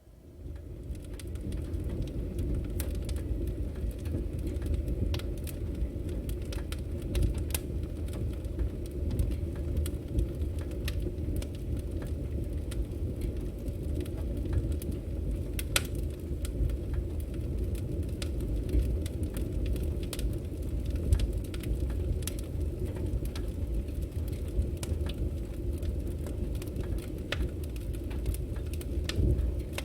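Firewood burning: a steady low rumble of the flames with scattered sharp crackles and pops from the logs, fading in over the first second.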